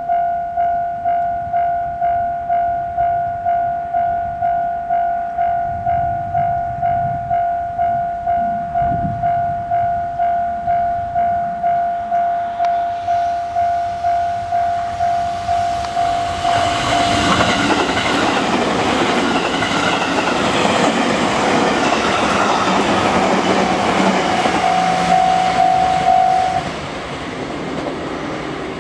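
Japanese level-crossing alarm ringing a steady repeated ding, about one and a half strokes a second. After about sixteen seconds an eight-car JR Central electric train, coupled from 211 and 313 series units, passes over the crossing, its wheels clattering over the rail joints for about ten seconds. The noise then drops away suddenly as the train clears.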